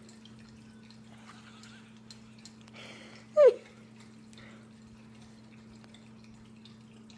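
Dog lapping water from a tilted drinking glass, faint wet licks and drips. About three and a half seconds in there is one short, loud squeak that falls quickly in pitch.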